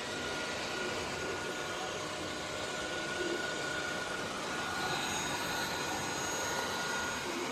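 dreame D9 Max Gen2 robot vacuum running, a steady rush of its suction fan with a thin high whine held at one pitch.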